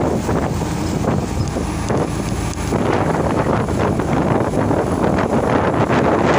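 Loaded truck on the move: its engine runs steadily under heavy wind noise on the microphone, and the noise grows denser and a little louder about three seconds in.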